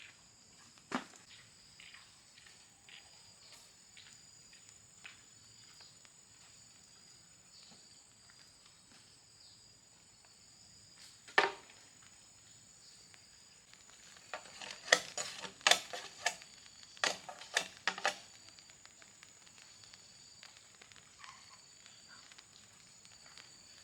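Insects trilling steadily in the background, with scattered light clicks, one sharp knock about eleven seconds in and a run of sharp knocks between about fourteen and eighteen seconds in.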